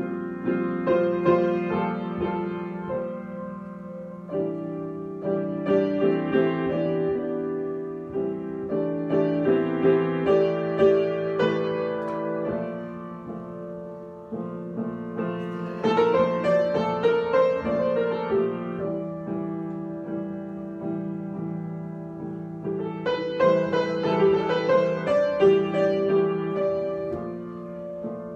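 Solo piano improvising: sustained chords with melodic figures over them, swelling and easing back in phrases.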